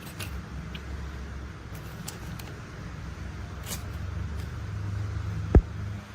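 Low, steady engine-like rumble of a heavy machine that slowly grows louder, with a few light clicks and one sharp knock about five and a half seconds in.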